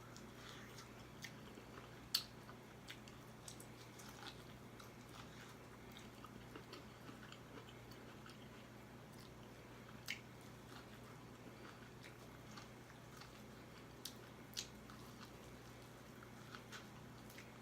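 Quiet close-up eating sounds: a person chewing and biting, with scattered sharp clicks, the loudest about two seconds in and a few more near the middle and toward the end.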